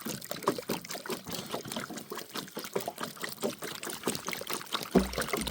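Water trickling: a dense run of small, irregular splashes and ticks. A low hum comes in near the end.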